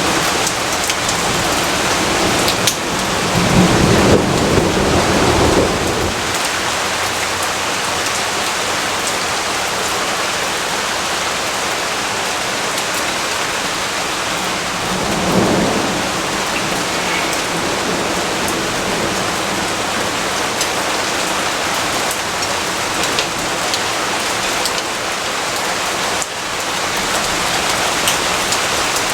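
Steady heavy rain, with low rumbles of thunder swelling about three seconds in and again around halfway through.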